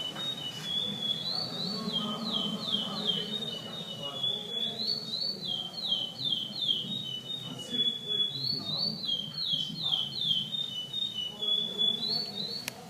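Chestnut-bellied seed finch (curió) singing its regional 'pardo' tournament song: phrases of clear whistled notes, each a quick falling slur, repeated in runs with short pauses between. Voices murmur faintly behind.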